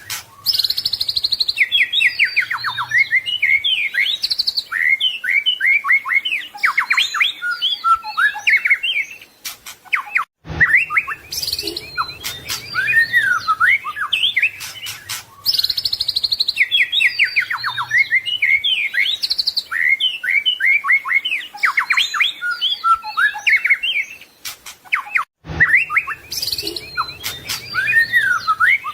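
White-rumped shama (murai batu) singing a long, varied song of rapid whistled phrases and trills. It is a looped recording: the same passage repeats about every fifteen seconds, with a brief gap and click at each join.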